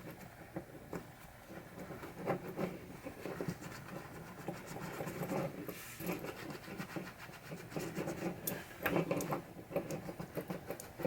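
Irregular scratching and rubbing from small pinball drop-target parts being cleaned and handled by hand, with scattered light clicks.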